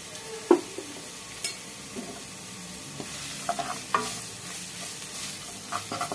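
Chopped red onion and garlic sizzling in hot oil in a nonstick pan as they are sautéed, with a wooden spatula stirring, scraping and knocking against the pan. The loudest knock comes about half a second in.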